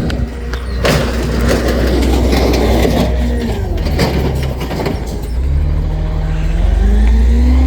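Garbage truck running, with a loud rushing clatter and scattered knocks for the first few seconds, then the engine revving up, its pitch rising toward the end.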